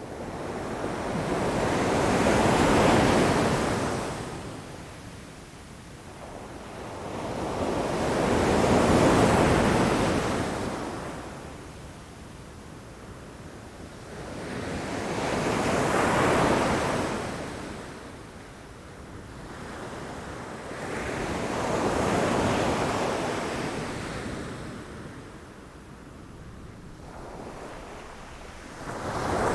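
Ocean waves crashing against rocks, four surges that swell and fade about every six to seven seconds, with the next one building near the end.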